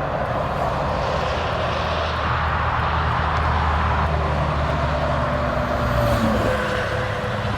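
Steady engine rumble with a low hum, whose pitch shifts about six seconds in.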